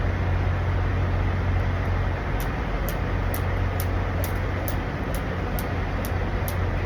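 Steady low drone of idling diesel trucks and traffic noise. A faint high ticking, about two to three ticks a second, starts about two seconds in.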